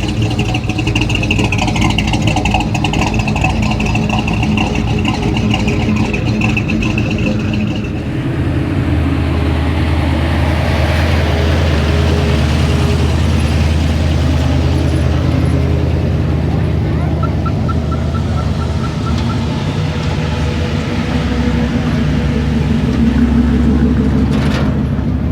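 A motor vehicle engine running steadily, its low, deep tone growing stronger about eight seconds in.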